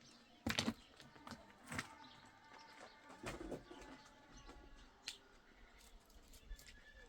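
Birds calling faintly, with a few sharp knocks, the loudest about half a second in.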